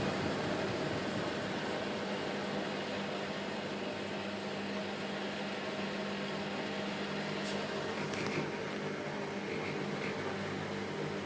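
Bosch front-loading washing machine running, its motor and drum giving a steady, even hum, with two faint ticks a little past the middle.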